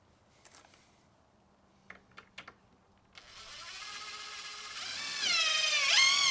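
A few light clicks, then a power tool's electric motor spinning up about three seconds in, its whine rising steadily in pitch and growing louder, climbing faster near the end.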